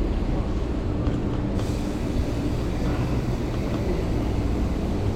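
Steady low rumble of wind and road noise while riding a bicycle.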